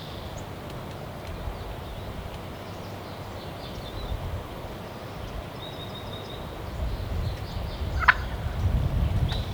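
Wild turkey gobbling, faint. A low rumbling noise grows louder near the end.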